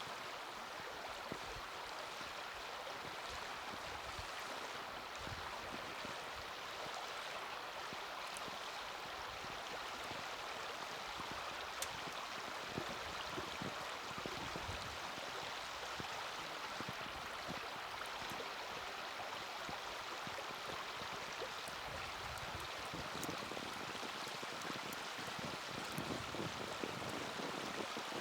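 Small wood fire burning in a mini fire stand: a steady rushing hiss with a few sharp crackles and pops scattered through it.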